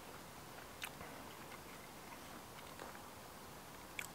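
Faint sounds of a person eating pancakes and bacon: quiet chewing with a few soft clicks.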